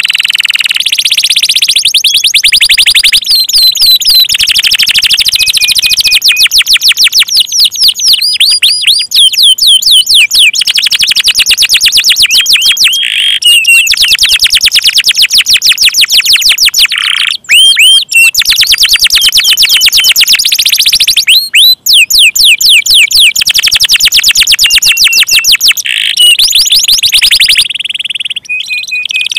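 Domestic canary singing loudly in a long, unbroken song of fast trills and rolls, with a couple of brief pauses.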